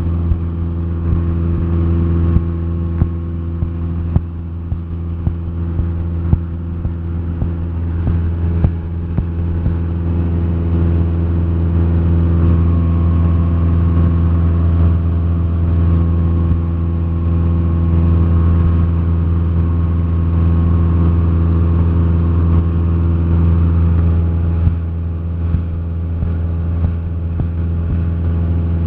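Cessna 172SP's Lycoming IO-360 four-cylinder engine and propeller running steadily in cruise flight, heard inside the cabin as a constant drone.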